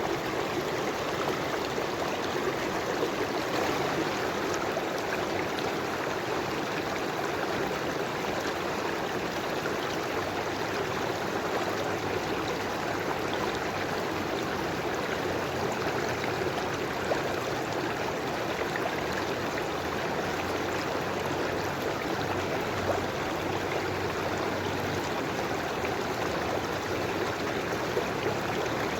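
River water flowing over stones, a steady rushing and gurgling that stays even throughout.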